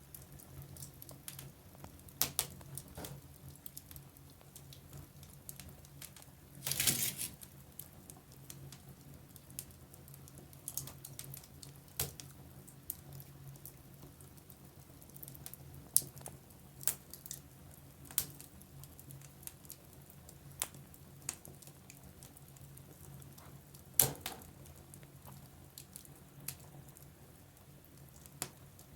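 Wood fire burning in a fireplace: scattered sharp crackles and pops, with a short hissing flare about seven seconds in and a couple of loud single pops later on, over a low steady hum.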